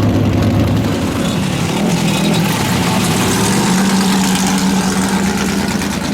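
V8 muscle car engine running, its pitch stepping up about a second in and again near four seconds in, then holding steady at the higher revs.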